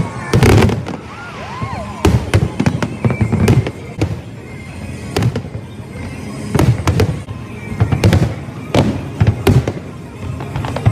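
Fireworks going off: a rapid, irregular series of sharp bangs and crackling bursts, with music playing underneath.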